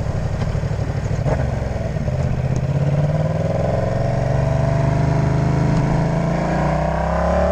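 Yamaha MT-07's parallel-twin engine pulling under throttle, its pitch rising steadily from about two and a half seconds in as the bike accelerates, then dropping off right at the end.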